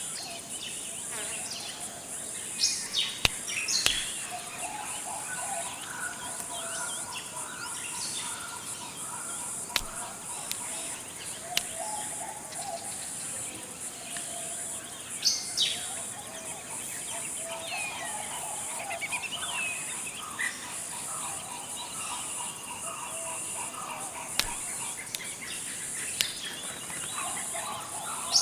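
Forest ambience: a steady high-pitched insect drone under scattered bird calls and chirps. A few short, sharp calls stand out, the loudest about three to four seconds in and again around fifteen seconds in.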